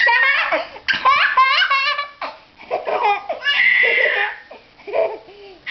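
A young child laughing and squealing in high-pitched bursts, with a quick run of laughs about a second and a half in and a long held squeal a little past the middle.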